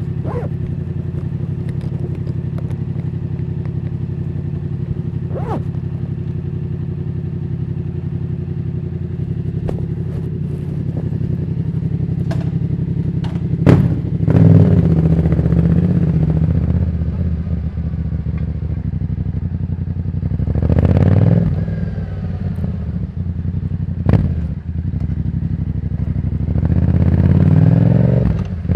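Yamaha Tracer 700's 689 cc parallel-twin engine running steadily, then pulling up in revs three times, with a couple of sharp knocks in between.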